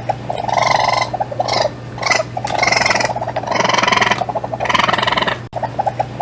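An animal calling over and over: rattling calls about once a second, each opening with a quick run of clicks, over a steady low hum.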